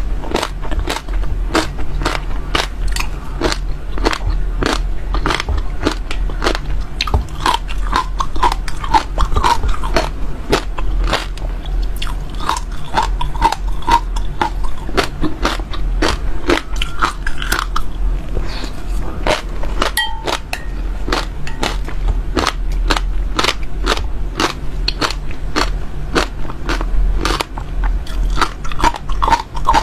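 Crunchy seeds being bitten and chewed close to the microphone: a steady run of sharp crackling crunches, several a second, over a low steady hum.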